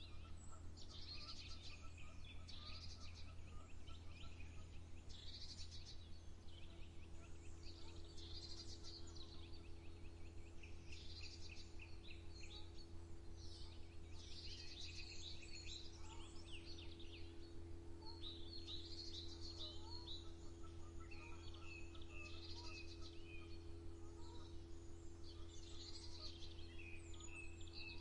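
Several songbirds singing at once, a dense mix of chirps and quick trills, over a steady low hum.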